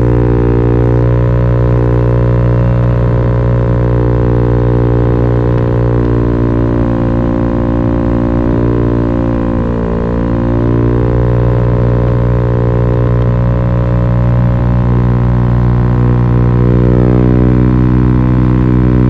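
Italjet Dragster 125 scooter engine heard through an Akrapovic racing slip-on exhaust with the baffle removed, held at steady revs as a constant drone. The pitch dips slightly about halfway through, then recovers.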